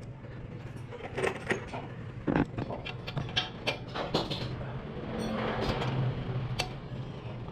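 Small metal parts and hand tools clinking and tapping during cylinder-head valve assembly, a series of sharp irregular clicks and knocks over a steady low hum.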